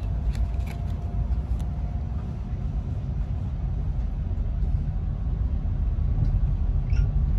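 Steady low rumble inside a PKP Express InterCity Premium Pendolino train carriage, with a few light clicks in the first second or so.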